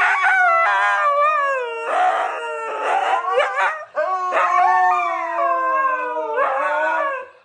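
A dog howling in two long, wavering howls that slide up and down in pitch, with a short break about four seconds in.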